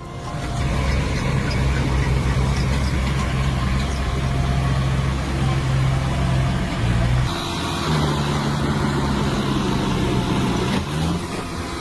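Tractor engines running hard, a steady low drone. About seven seconds in it cuts to another engine drone, a little higher in pitch, that rises slightly near the end.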